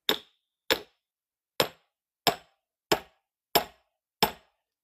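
Hammer striking a steel wedge driven into a firewood log: seven sharp, ringing metallic blows at an even pace, about two-thirds of a second apart.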